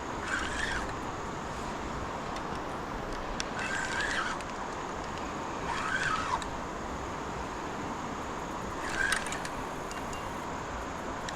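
Fishing reel's drag buzzing in four short spurts as a hooked blue catfish pulls out line; the third spurt falls in pitch. A steady hiss runs underneath.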